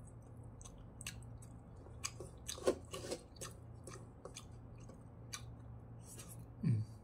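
Close-miked chewing of fried wagyu beef: irregular wet mouth smacks and clicks, thickest about halfway through, with a short low sound near the end.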